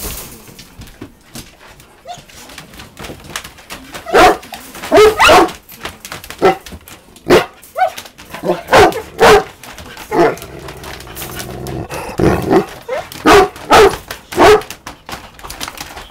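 Great Dane barking at a balloon: about a dozen loud barks in irregular clusters, starting about four seconds in.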